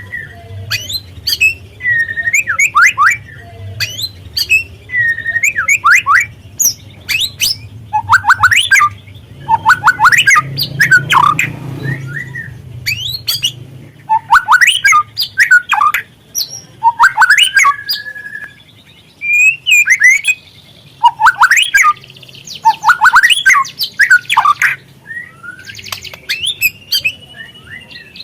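Young white-rumped shama singing phrase after phrase of quick, sharp chirps and harsh rattling notes, with short pauses between the phrases.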